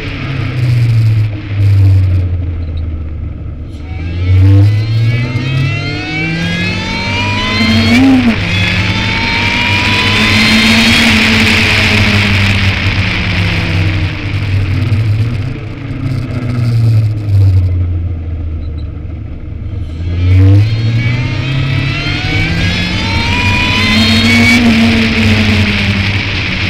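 Ariel Atom's engine heard from its open cockpit, revving up through the gears: the pitch rises in repeated sweeps, each broken by an upshift. Twice the engine eases off and falls back, then pulls hard again, with wind rushing past.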